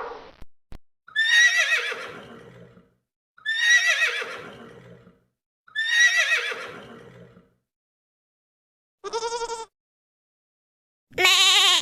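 A horse whinnying three times, each a falling, quavering call of about a second and a half. Near the end come two short, wavering goat bleats.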